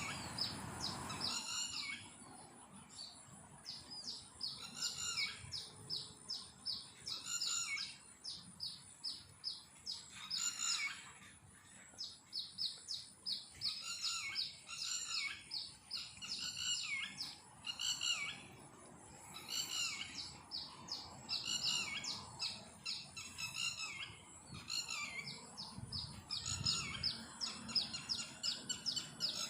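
A bird singing a loud, clear song of quick, high chirping notes in short repeated phrases, broken by a few brief pauses.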